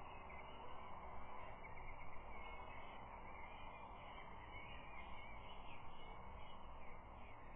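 Faint distant birdsong, many short chirps and whistles, over a steady background hiss.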